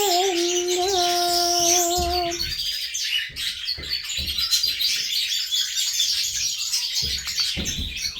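Pet birds chirping and tweeting in quick, high twitters. A held note from a background song ends about two seconds in.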